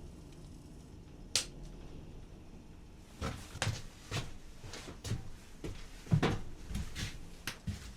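Handling noises in a small room: a single sharp click, then an irregular run of soft knocks and thumps, like things being moved and set down.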